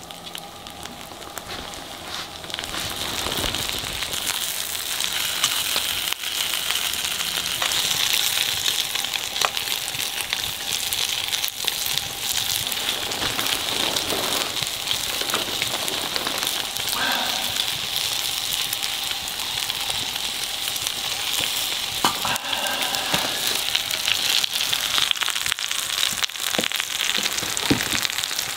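Food frying in a pan over a wood campfire: a steady sizzle that swells about two and a half seconds in, with scattered pops and crackles of fat and burning wood.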